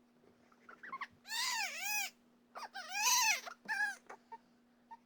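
Newborn baby crying in short wailing cries, each rising and falling in pitch, about three in a row. A faint steady hum runs underneath.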